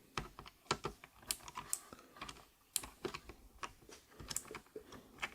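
Irregular sharp plastic clicks and taps from the 8BitDo Retro Mechanical Keyboard (M Edition) being worked on by hand, as its switches are pressed and levered out of their hot-swap sockets.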